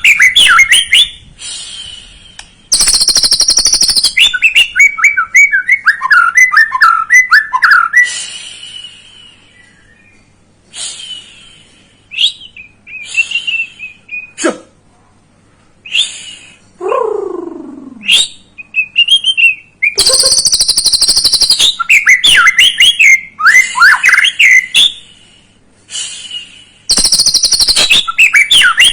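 White-rumped shama (murai batu) singing in bouts: rapid, varied whistled phrases alternating with loud harsh rasping bursts. There are a few quieter gaps in the middle and a single falling whistle about two-thirds of the way through. This is a fired-up bait song of the kind played to rouse young shamas into singing.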